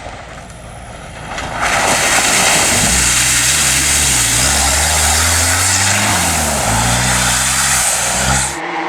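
Rally-raid competition car passing close at speed, its engine revving up and dropping back several times through gear changes over a loud rushing noise, then cutting off suddenly near the end.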